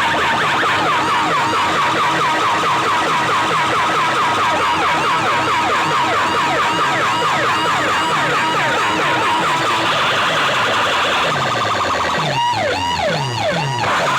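Siren-style electronic effect played loud through a DJ competition sound system: rapid falling pitch sweeps repeating several times a second, changing near the end to rising-and-falling wails.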